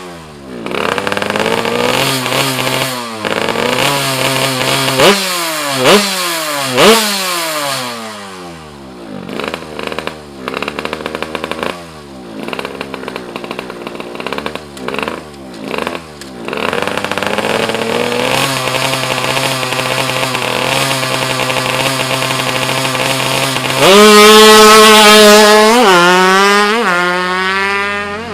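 Yamaha F1ZR two-stroke single-cylinder engine, tuned to 116cc, idling and blipped through a series of sharp revs that rise and fall quickly. Near the end it is held at high revs, the loudest part, before dropping back.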